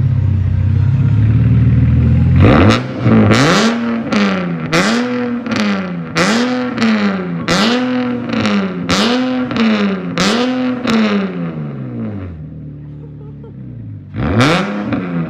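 Car engine breathing through freshly fitted headers, test pipes, Y-pipe and a Tomei single-exit exhaust. It idles, then is blipped about nine times in quick succession, each rev rising and falling about a second apart with a raspy peak. It then settles back to idle, and one more sharp rev comes near the end.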